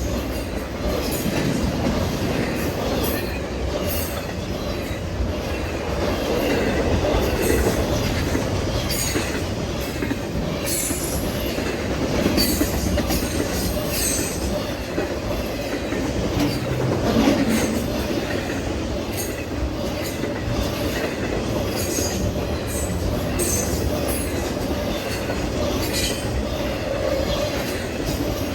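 Norfolk Southern freight train rolling past with a steady rumble of cars and steel wheels on rail, clicking over joints, with many short wheel squeals throughout.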